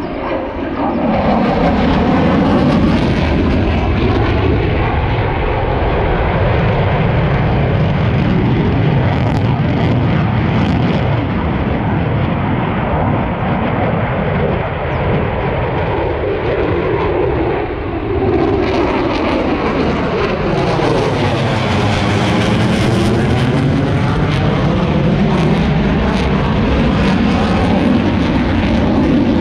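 Military aircraft flying past, loud and continuous throughout, with a sweeping, phasing rush from about 19 to 25 seconds in as it passes closest.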